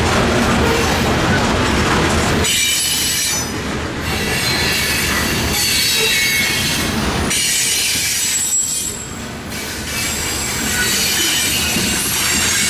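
Freight train cars rolling past on the rails with a steady rumble; from about two seconds in, high-pitched wheel squeal rings over it and continues.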